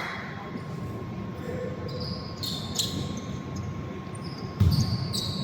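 Basketball game play on an indoor court: sneakers squeaking on the floor in short high chirps, and a ball thump about four and a half seconds in, over the echoing din of the hall.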